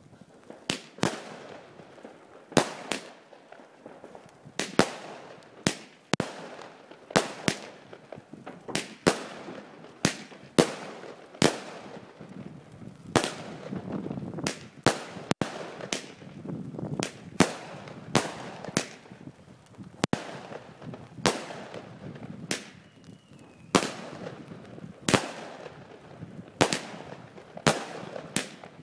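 A 25-shot peony fireworks battery firing, a steady string of sharp bangs, often in close pairs, roughly one to two each second.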